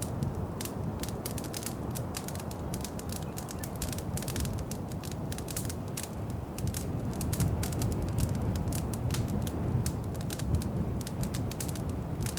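Wood fire crackling in a fireplace: many sharp pops and snaps over a steady low rumble of the flames.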